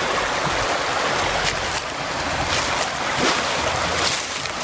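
Steady rush of a woodland stream flowing over rocks, with a few short crisp crackles, like dry leaves underfoot, over it.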